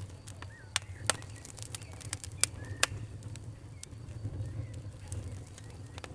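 Wood fire crackling: irregular sharp snaps and pops over a steady low rumble, with a few louder pops in the first three seconds.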